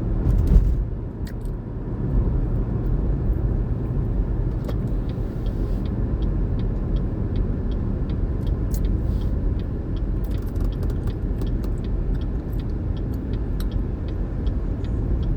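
Steady low engine rumble heard from inside a pickup truck's cab, with a brief knock about half a second in and a faint, regular ticking through the middle.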